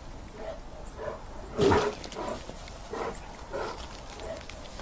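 Grizzly bear breathing and grunting in short huffs, with one louder huff about a second and a half in.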